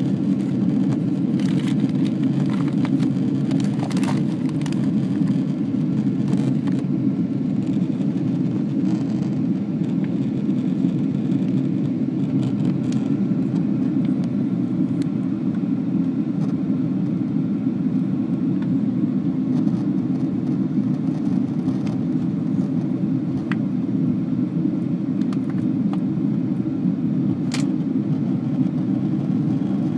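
Steady roar of a jet airliner's cabin in flight: engine and airflow noise, with a few light clicks in the first seconds and one sharp click near the end.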